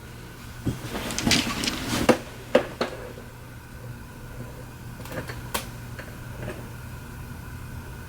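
Small clicks and knocks of a phone and tools being handled on a workbench, several in quick succession in the first three seconds and a few fainter ones later, over a steady low hum.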